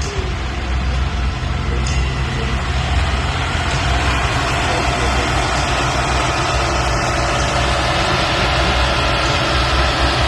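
Diesel tractor engine running steadily at a tractor pull, with a faint steady whine that comes in about three seconds in.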